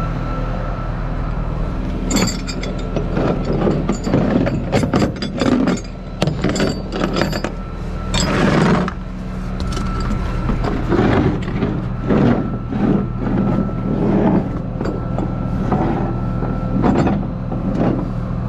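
Tow truck engine running steadily, with irregular metallic clinks and clanks of tow gear being handled and a few short scraping rushes.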